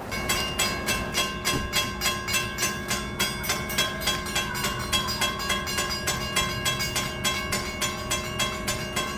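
Railroad crossing bell ringing steadily, about three strikes a second, each strike leaving a metallic ring, over the low rumble of a train.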